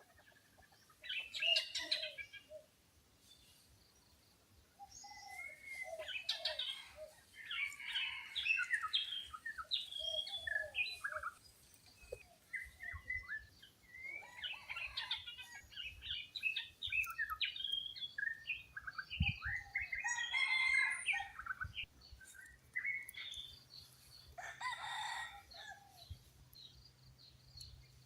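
Wild birds chirping and calling in quick overlapping phrases, with a red junglefowl crowing once, about a second and a half long, some twenty-four seconds in.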